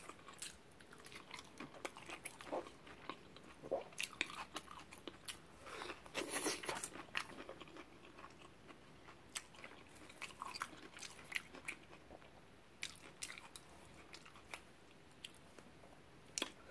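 A person chewing a mouthful of seafood burrito with fried shrimp and fish, close to the microphone: irregular wet smacks and crunches, with a louder crunch about six seconds in. A short rustle near the end.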